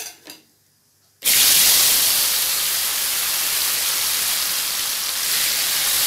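Raw potato pieces sizzling in hot refined oil in a karahi, just added for frying. The sizzle starts suddenly about a second in as the potatoes go in, then holds steady and loud.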